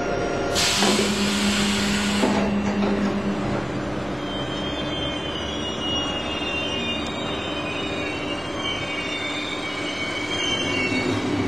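Train running, heard from on board, with a loud hiss lasting a couple of seconds just after the start. Then a thin, high wheel-and-brake squeal for most of the rest as it runs into a station.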